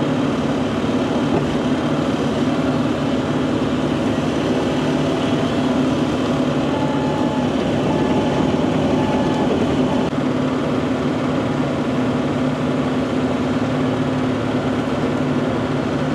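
Bobcat E42 mini excavator's diesel engine running steadily while the machine picks up a log, with a faint higher whine coming and going around the middle.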